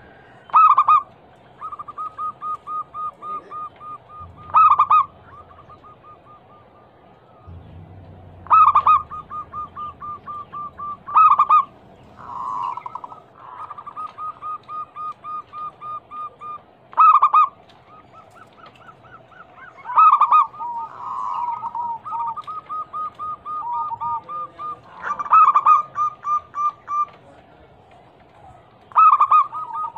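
Zebra doves (perkutut) cooing: a loud call every few seconds, each followed by a fast run of short notes at about four to five a second. In places two birds' runs overlap.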